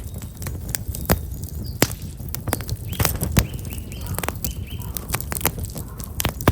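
Black locust firewood burning in a campfire, crackling with frequent irregular sharp pops over a low steady rumble. Small birds chirp a few times near the middle.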